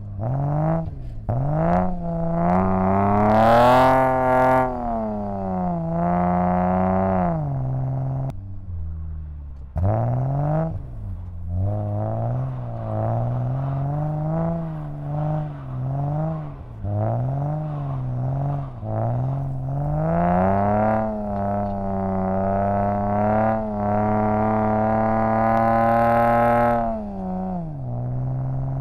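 BMW E34's engine revving hard and easing off again and again, heard from inside the cabin, its pitch climbing and falling with each push of the throttle. There are long pulls early on and for several seconds near the end, a brief lift about a third of the way in, and a run of short, quick blips in between.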